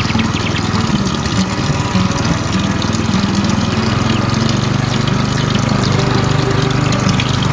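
Small electric water pump motor running steadily with water splashing; its hum deepens and grows stronger about four seconds in.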